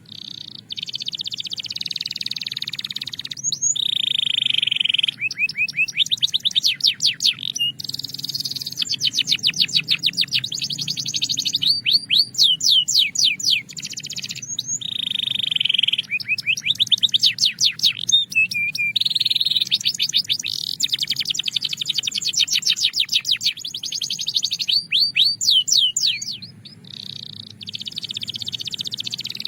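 Belgian canary singing a long, unbroken song: fast trills of rapidly repeated sweeping notes alternating with steady high-pitched rolls, the song dropping briefly near the end.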